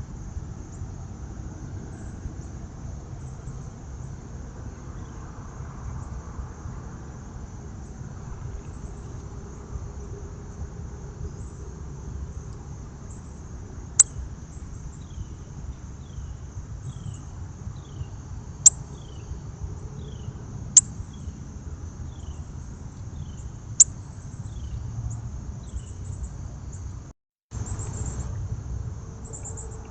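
Outdoor backyard ambience: a steady high insect trill over a low background rumble. In the middle a bird gives a run of short falling notes about once or twice a second, and four sharp clicks are the loudest sounds. The audio cuts out briefly near the end.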